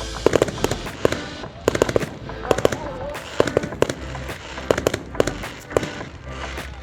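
Display fireworks going off in rapid volleys of sharp bangs and crackles, several clusters a second.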